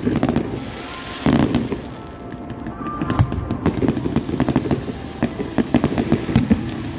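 Fireworks going off: a loud bang about a second in, then rapid crackling and popping from ground fountains and aerial shells bursting, densest in the second half.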